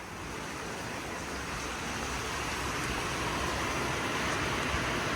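Heavy rain falling steadily in a storm, growing gradually louder.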